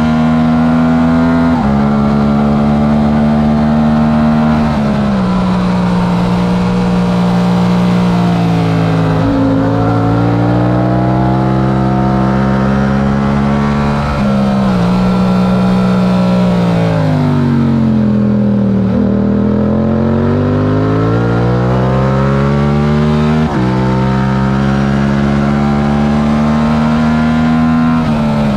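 Yamaha R7's stock 689 cc parallel-twin engine under hard racing use, revving up through the gears with sudden drops in pitch at each upshift. About halfway through the engine note falls steadily as the bike slows for a corner, then climbs again as it accelerates out and shifts up once more.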